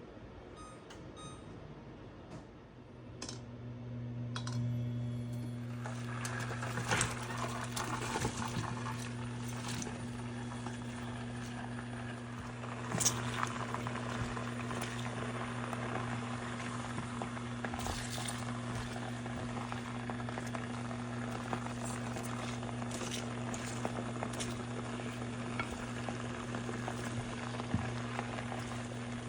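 A few short electronic beeps, like a cooktop's control panel being set, then a steady electric hum starts about three seconds in. From about six seconds a simmering hiss of food cooking in a pan builds and carries on, with occasional light clinks of a utensil against the pan.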